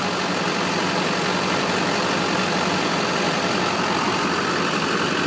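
Duramax 6.6-litre V8 turbo diesel idling steadily.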